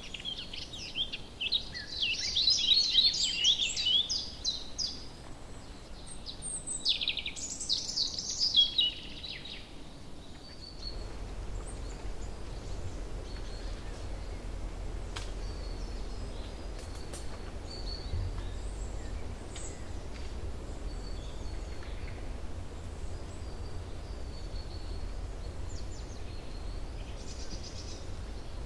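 A songbird singing two bursts of rapid, high chattering notes in the first ten seconds, then only faint scattered chirps over a low steady rumble.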